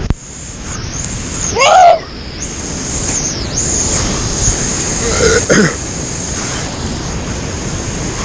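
Loud, steady rushing of whitewater over the microphone, with a short vocal cry from the paddler about two seconds in and a fainter one about five seconds in.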